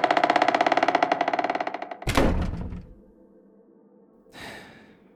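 An eerie, rapidly pulsing sound effect fades out, then a single heavy thud lands about two seconds in and dies away within a second. A short faint whoosh follows near the end.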